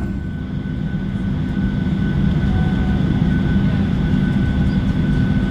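Steady low drone of a Boeing 737-700's cabin on the ground, with a thin steady whine above it.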